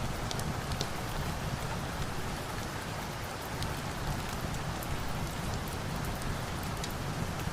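Steady rain, with scattered sharp crackles of a wood fire.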